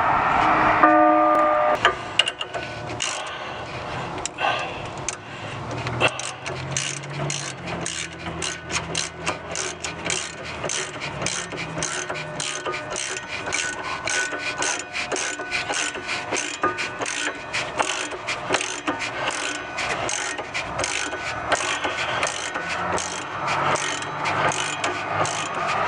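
A small mechanism clicking steadily, about two clicks a second, after a brief ringing tone about a second in.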